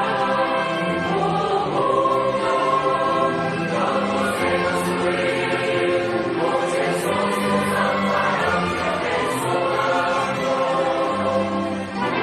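Choir singing a religious song in slow phrases of long held notes.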